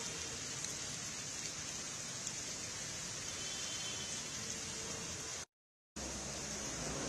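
Heavy rain falling steadily on a road, an even hiss. The sound cuts out completely for about half a second near the end, then resumes.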